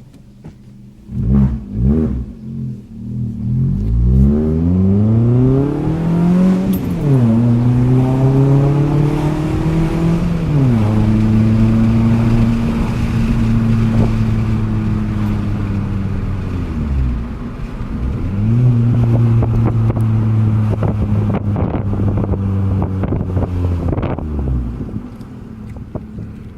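Fiat 500's engine revving through an aftermarket exhaust: two quick blips, then the revs climb and are held steady at a raised speed in long stretches, dipping briefly in between, before dropping back to idle near the end.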